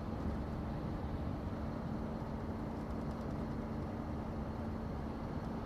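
Scania truck's diesel engine running steadily at cruise, heard from inside the cab as an even drone with a constant low hum, over road noise.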